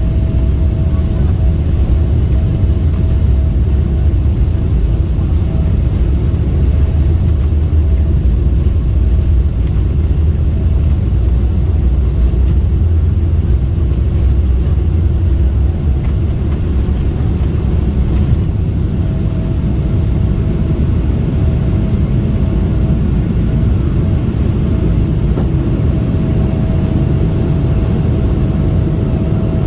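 Cabin sound of a Boeing 777-300ER with its GE90-115B engines running: a loud, steady low rumble with a faint steady whine over it.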